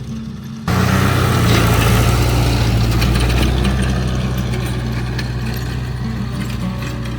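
A heavy engine running steadily, cutting in suddenly under a second in over background music and easing off slightly toward the end.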